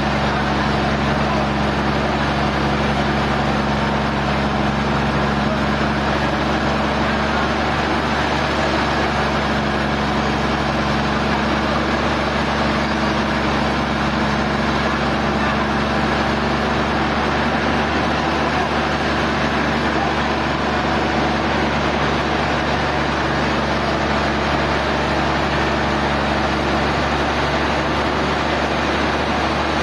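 Sawmill machinery running steadily: an even mechanical noise over a low, constant hum.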